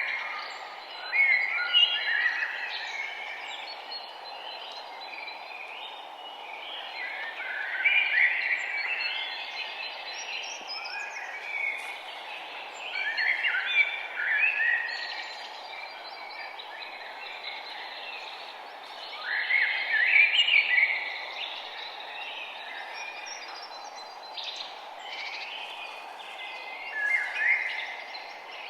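Birds singing, with a loud song phrase every five or six seconds over a steady background hiss.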